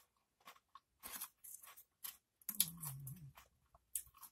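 Crunchy Doritos tortilla chips being chewed close to the microphone, in several short crackling bursts. A low hummed voice sounds briefly in the middle.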